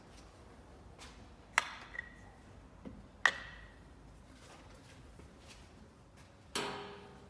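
Two sharp metallic clinks, each with a brief ringing tail, then a louder clanking clatter that rings for about half a second near the end: metal parts or tools being handled and set down.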